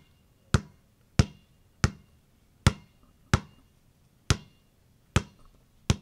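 A series of sharp knocks or bounces, about one every three quarters of a second, each with a brief ringing tail.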